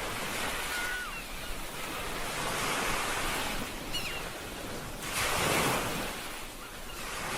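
Ocean waves washing onto a shore, swelling twice, in the middle and again about two-thirds through, with a few faint, short high-pitched calls over the surf.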